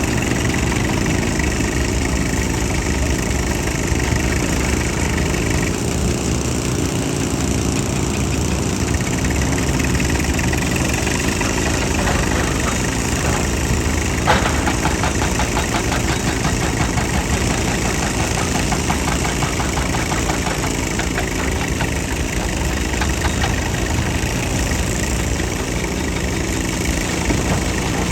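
Heavy machine's engine running steadily, with one sharp knock about halfway through.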